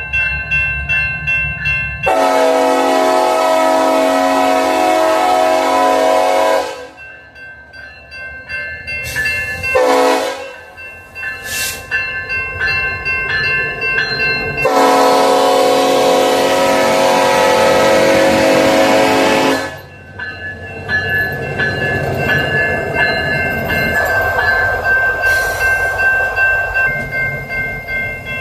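A train passing with its locomotive's air horn sounding: a long blast, a short blast, then another long blast. Underneath runs a steady rhythmic clatter of wheels over the rails.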